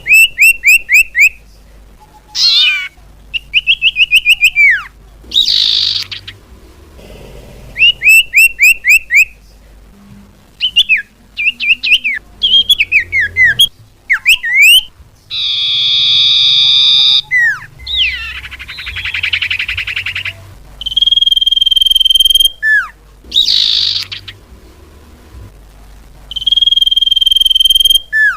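Common iora (cipoh) calls from a bird-lure recording: short phrases of fast repeated whistled notes and gliding chirps, two harsh buzzy chatters in the middle, and steady whistles held for about a second, with short pauses between phrases.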